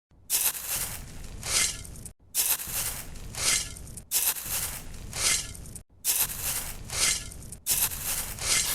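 Rough scraping and rubbing, in five short segments that start and stop abruptly, each with two louder swells.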